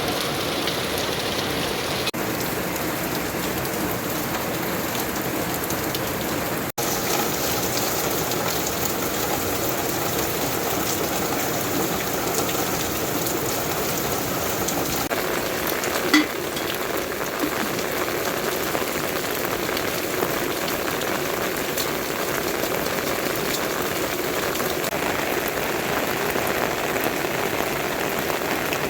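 Steady rain falling, an even hiss of drops. The sound cuts out for an instant about seven seconds in, and a single sharp knock stands out about sixteen seconds in.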